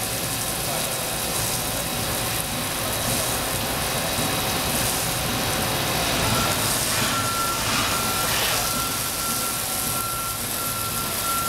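Milltronics VM-24 CNC vertical machining center running a program with coolant on: a steady mix of machine running noise and hiss. From about halfway through, a high electronic beep sounds in long pulses over it.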